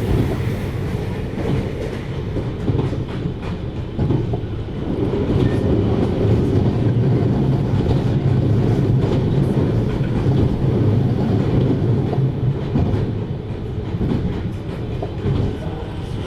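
JR Hokkaido 733 series electric multiple unit running at speed, heard inside the passenger car: a steady rumble of wheels on rail with scattered rail-joint clicks, growing louder about five seconds in and easing a little near the end.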